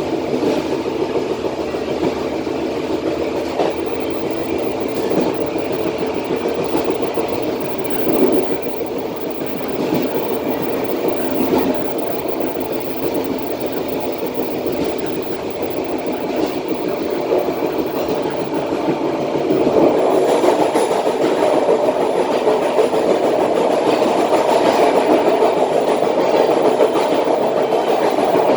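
Passenger train running along the track, the wheels rolling on the rails with a steady rumble and now and then a sharp click. It grows louder about two-thirds of the way through.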